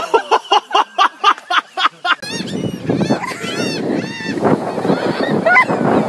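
A person laughing in quick, honking bursts, then gulls calling in short, arching squawks over wind and surf noise.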